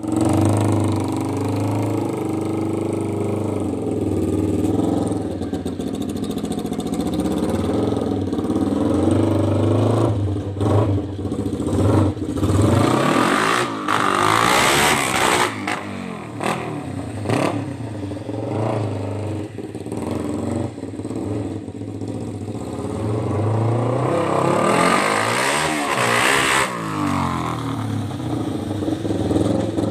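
A lawnmower fitted with a Kawasaki Ninja motorcycle engine, idling and then revved: a few quick blips about a third of the way in, a longer climb and fall in pitch around the middle, and another rev near the end.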